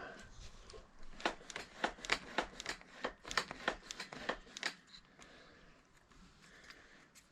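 A quick run of light clicks and taps from small parts or tools being handled, about three or four a second for roughly four and a half seconds, then they stop.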